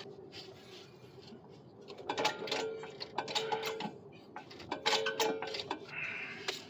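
Floor jack being pumped under a car's front suspension knuckle: groups of metallic clicks and clinks, about three strokes a second or so apart, raising the knuckle to load the suspension.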